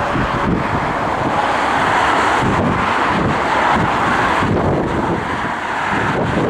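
Jet airliner engines running loud and steady, with wind buffeting the microphone.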